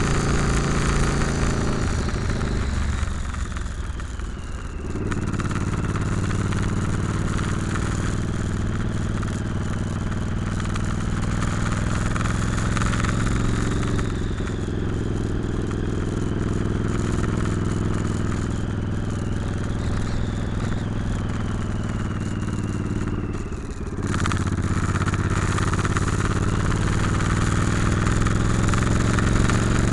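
Motorcycle engine running steadily under way. The throttle eases off twice, about three seconds in and again near the end, then the engine pulls again.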